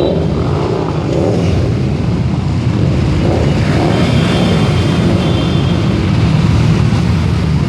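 Motorcycles riding past in a procession, their engines running in a steady, loud, low rumble.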